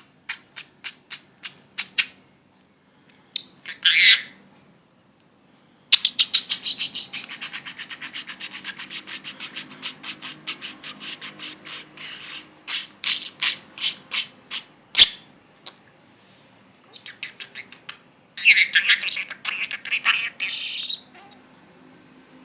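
Budgerigar chattering: fast trains of sharp clicks and chirps, with a long rapid clicking run in the middle and warbled whistling phrases about four seconds in and near the end.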